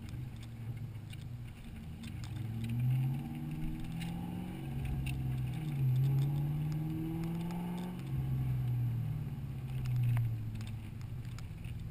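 Ford small-block V8 in a Fox-body Mustang accelerating hard, its pitch climbing and dropping back several times as it runs up through the gears.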